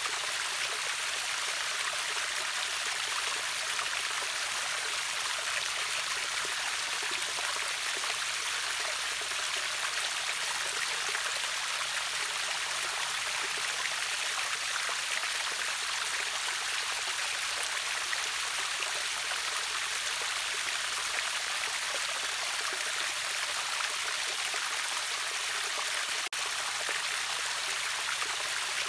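River waterfall rushing steadily, a dense splashing hiss weighted toward the high end, with a momentary dropout about 26 seconds in.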